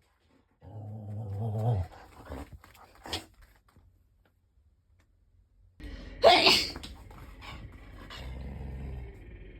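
A dog grumbling in low growly vocalizations. A loud sneeze comes about six seconds in, and the dog grumbles again after it, talking back to the sneeze.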